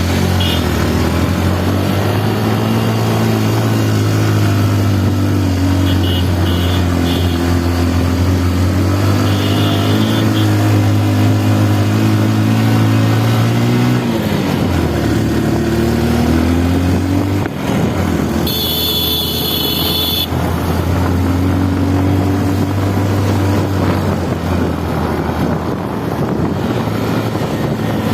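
A motor vehicle's engine running steadily while driving, heard from on board. The engine note drops about halfway through, as on a gear change or slowing, and picks up again. A horn sounds briefly about two-thirds of the way in.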